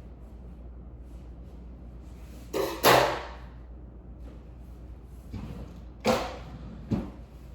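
Several thuds and knocks, the loudest about three seconds in, with three more in the second half, over a steady low hum.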